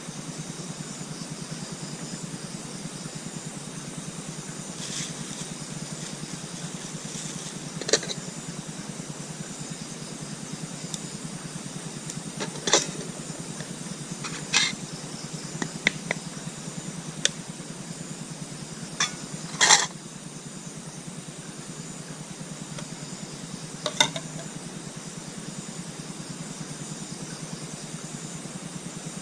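Scattered short clinks and knocks, like metal cookware or utensils being handled, about eight of them through the middle of the span, over a steady high chorus of night insects and a low hum.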